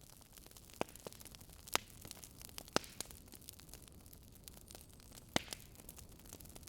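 Burning wood logs crackling: irregular sharp pops and snaps, a few louder ones, over a soft steady hiss of the flames.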